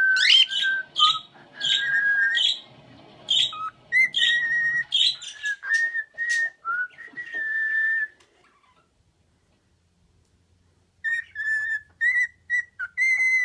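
Pet bird whistling: a run of short whistled notes and chirps, mostly held at one pitch with a few quick glides. It falls silent for about three seconds, then starts whistling again near the end.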